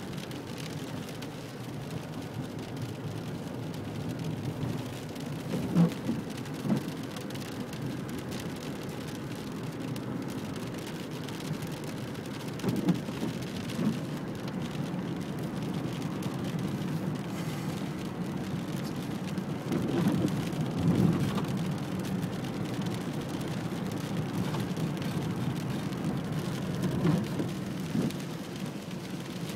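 Steady rain falling, with a few short louder hits now and then.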